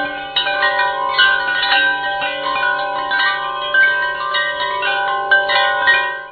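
Chimes ringing: many overlapping, sustained bell-like tones at different pitches, struck one after another, cutting off abruptly near the end.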